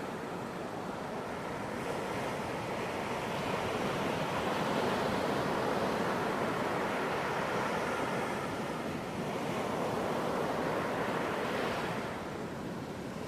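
Ocean waves breaking and washing on a beach, a continuous rushing surf that swells and eases, dipping about three quarters of the way through and falling off near the end.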